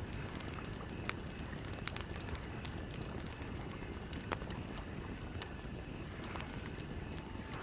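Campfire crackling, with scattered sharp pops at irregular intervals over a steady low rumble.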